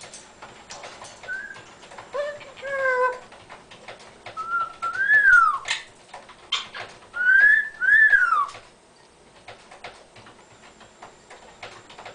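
Amazon parrot whistling and calling in a series of short calls. The loudest are rising-then-falling whistles about five seconds in and again around eight seconds in.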